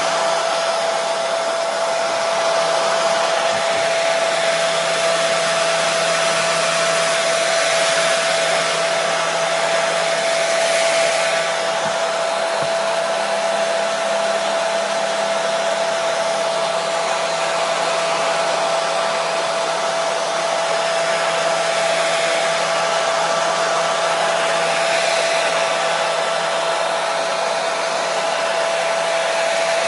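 Hair dryer running steadily: a constant rush of blown air with a steady motor whine held throughout.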